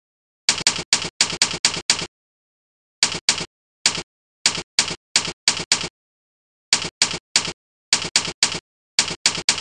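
Keystroke sound effect from the Jingle Keyboard program: the same sharp click played for each key pressed, in quick runs of several keystrokes separated by short pauses, with dead silence between.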